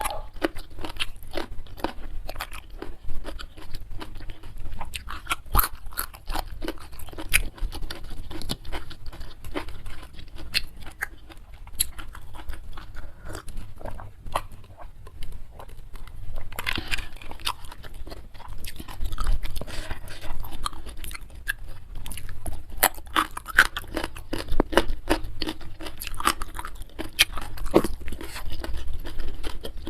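Close-miked eating: steady crunching and chewing of crisp food, many irregular crackles and wet mouth sounds.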